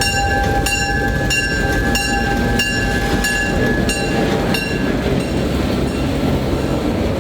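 Locomotive bell ringing at an even beat, about three strokes every two seconds, over the steady low noise of the departing passenger train rolling on the track. The bell stops a little over four seconds in, and the rolling train continues.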